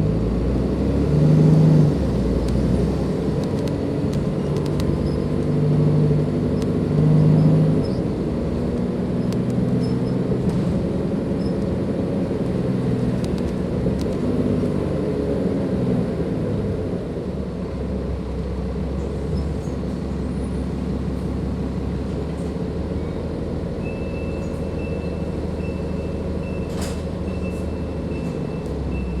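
A Dennis Enviro 500 double-decker bus's Cummins ISLe diesel engine, heard on board, pulling hard with its pitch rising and falling as the ZF automatic gearbox shifts. It then settles into a steady low rumble, and a thin high-pitched tone joins it near the end.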